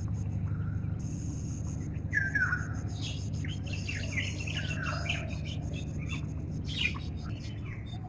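Birds chirping and calling, with two louder downward-sliding calls about two and five seconds in, over a steady low hum.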